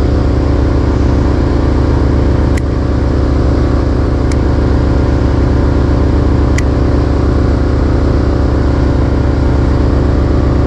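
Fishing boat's engine running steadily, a loud even drone. Three short ticks sound over it in the first two-thirds.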